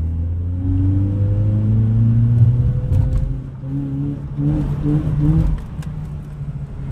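Mazda 6 engine and exhaust accelerating under load, the pitch rising for about three seconds, then dropping and pulling again. The sound is described as nasty ("dégueulasse"), with the car short of torque at low revs.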